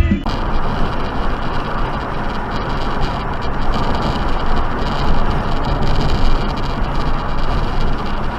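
Steady road and wind noise of a moving car, with no distinct impact or horn.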